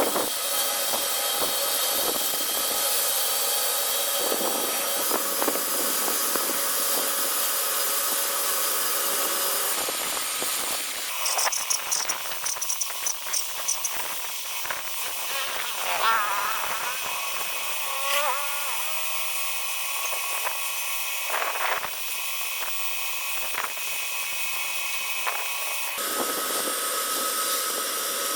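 Sawmill machinery running with a steady high whine and hiss. The sound changes about ten seconds in to scattered clicks and knocks, then goes back to the steady whine near the end.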